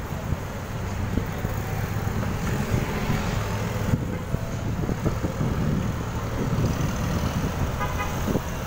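Steady rumble of road traffic, with wind noise on the microphone while riding along the road.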